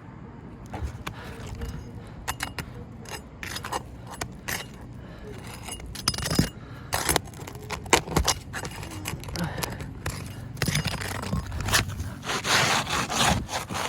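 Metal roofing tool scraping and clicking under asphalt shingles, in many short irregular strokes with a longer stretch of scraping near the end, as a shingle stuck on a hidden nail is worked loose.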